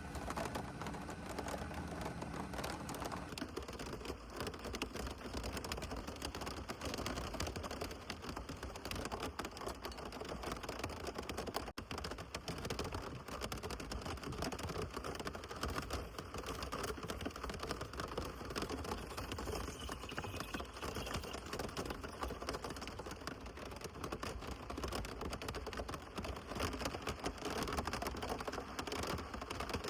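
Heavy rain falling steadily, a dense run of fast, fine drop ticks with no let-up.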